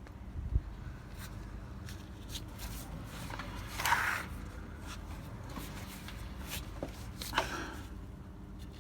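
Small handling noises: scattered light clicks and knocks, with two short scraping or rustling sounds, one about four seconds in and another near seven and a half seconds.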